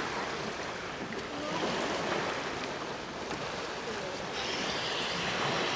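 Sea waves washing on the shore, a steady rush with a brief surge about four and a half seconds in.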